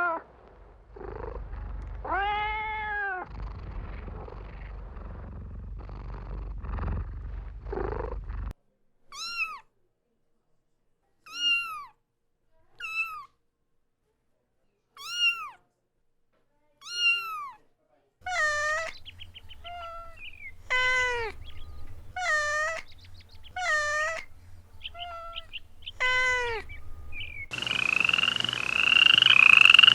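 Kittens meowing: a series of short, high-pitched meows, each rising and falling in pitch, some spaced a couple of seconds apart and others in quick succession. Near the end a louder, rasping, pulsing sound takes over.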